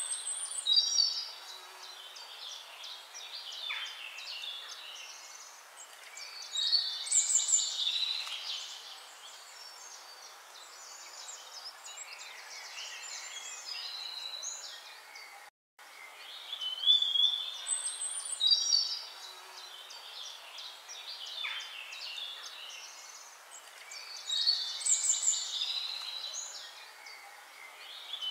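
Recorded birdsong: bright chirps and trills in clusters every few seconds. It cuts out for an instant about halfway, then the same sequence of calls plays again, as a looped track does.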